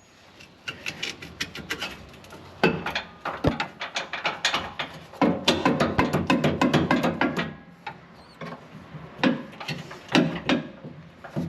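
Hand ratchet wrench clicking in quick runs of strokes, busiest in the middle, with a pause and a few more clicks near the end.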